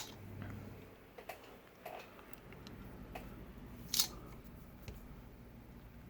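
A few light clicks and taps from handling the iPad and its freshly fitted, not yet glued screen while it is being tested, the sharpest about four seconds in, over a faint low rumble.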